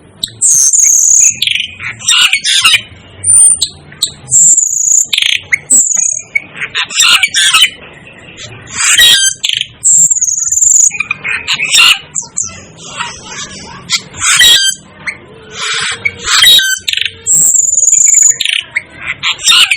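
Asian glossy starling calling: shrill high whistles of about half a second each, repeated every second or two, mixed with harsh chattering squawks.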